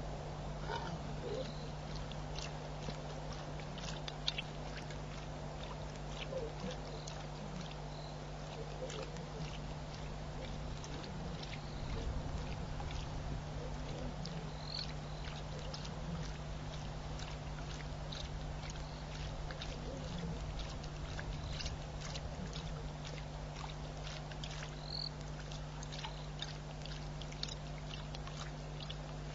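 Wildlife webcam ambience: a steady electrical hum under a dense scatter of short clicks and chirps from small animals.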